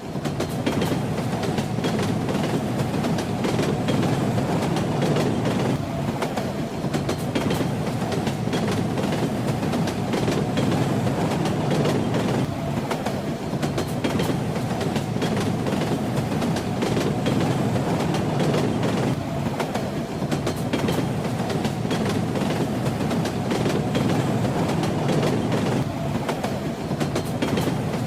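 A moving train running steadily: a continuous low rumble with the rattling clatter of its wheels on the rails.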